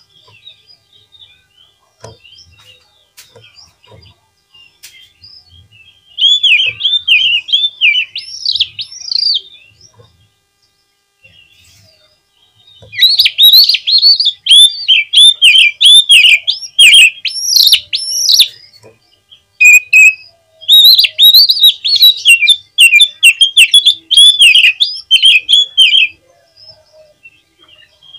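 Oriental magpie-robin (kacer) singing: three loud bouts of rapid, rising and falling whistled notes, with faint scattered chirps and clicks between them.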